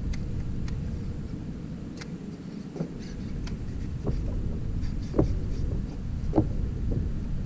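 Wind buffeting the microphone in a steady low rumble, with several short knocks and clicks scattered through it.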